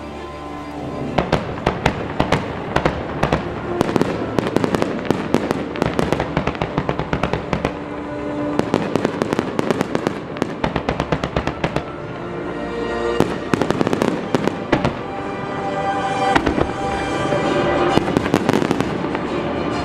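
Aerial firework shells bursting and crackling in rapid succession, starting about a second in and growing louder toward the end, over music playing with the show.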